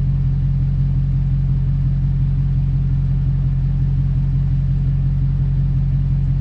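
Dodge SRT Hellcat's supercharged 6.2-litre HEMI V8 idling with a steady low drone, heard from inside the car.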